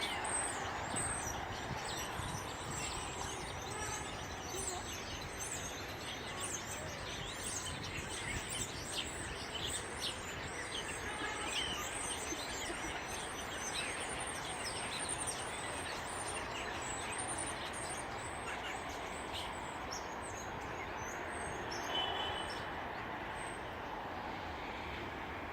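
Many songbirds chirping and calling in quick high notes over a steady background noise.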